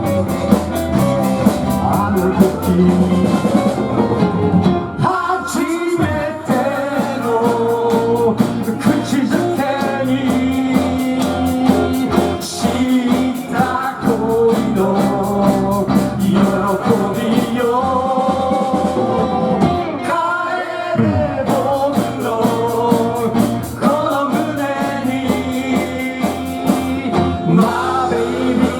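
Live band music with electric guitars, bass and drums playing a melody over a steady beat.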